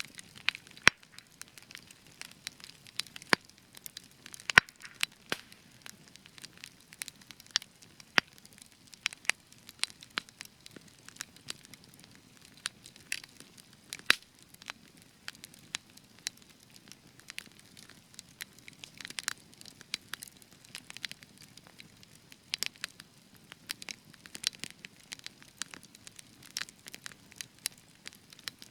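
Spruce wood fire crackling, with irregular sharp pops and snaps, a few of them louder, over a faint low hiss of burning.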